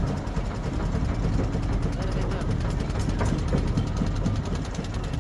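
Small boat's motor running steadily with an even low rumble.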